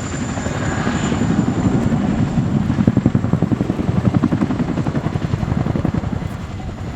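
Boeing CH-47J Chinook tandem-rotor helicopter in flight, its rotor blades beating in a rapid, loud chop that swells toward the middle and eases slightly near the end.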